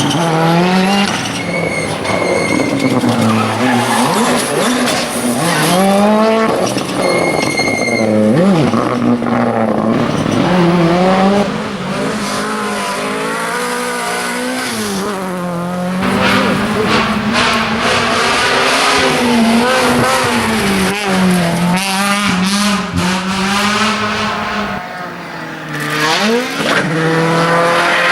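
Rally cars driven flat out on a stage, their engines revving up and falling back again and again through gear changes and corners, with tyre noise. The sound changes abruptly several times as one clip cuts to another.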